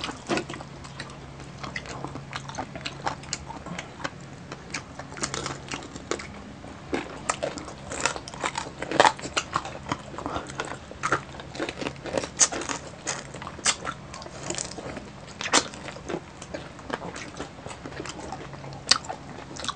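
Chewing and biting into crispy deep-fried pork knuckle (crispy pata), with many irregular, sharp crunches of the crackling skin.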